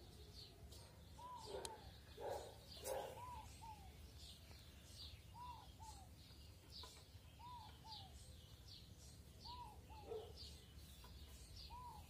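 Faint outdoor birdsong. A two-note call, an arched note followed by a shorter falling one, repeats about every two seconds over many quick high chirps. A few faint clicks come about two to three seconds in.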